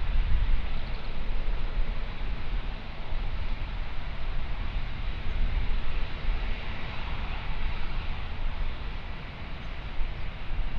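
Jet engines of a British Airways Boeing 777-200ER on departure: a steady, deep rumble with a broad roar over it.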